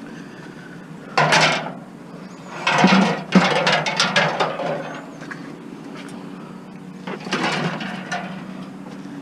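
Discarded vacuum cleaner and surrounding junk being pulled about and handled: three spells of scraping and knocking, the middle one longest with several sharp knocks, over a steady low hum.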